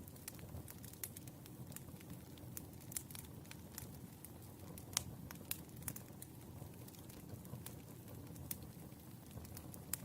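Burning firewood crackling: scattered sharp pops and snaps over a low, steady rumble, with one louder pop about five seconds in.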